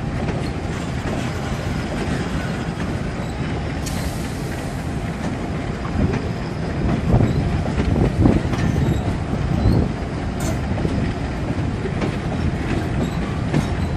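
Diesel-hauled freight train of empty steel-coil wagons rumbling slowly through a rail yard, with wheel clatter; a run of louder knocks comes between about six and ten seconds in.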